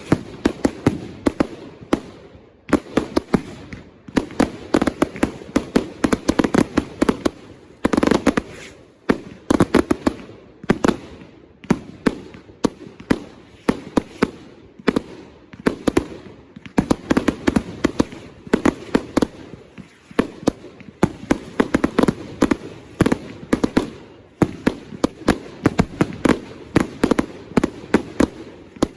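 Consumer fireworks firing: rapid volleys of sharp bangs, several a second, in clusters broken by brief pauses.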